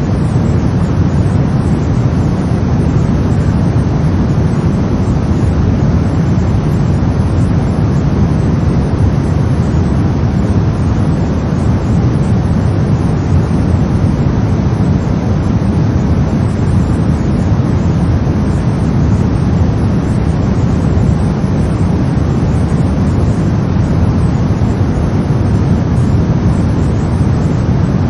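Steady brown noise: an even, deep rumbling hiss, strongest in the low end, with no change throughout.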